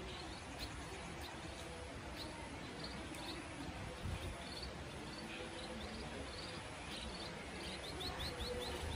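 Small birds chirping: short, high chirps that come in quick runs of a few at a time, repeated every second or so, over a steady low outdoor rumble.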